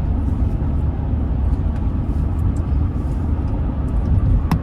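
Steady low rumble of a car driving on the highway, tyre and engine noise heard from inside the cabin, with one sharp click near the end.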